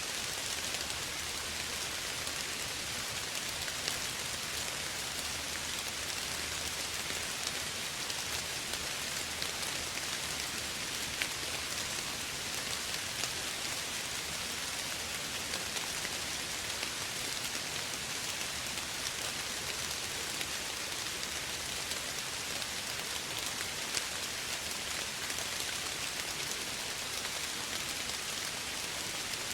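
Steady soft rain falling, an even hiss with scattered individual drops ticking on surfaces.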